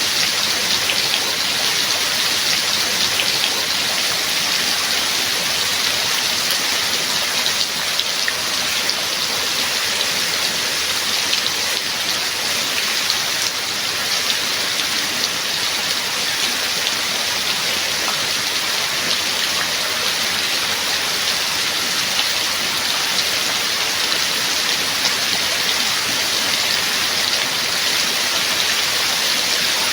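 Steady rain, a dense even hiss of many small drop impacts without let-up.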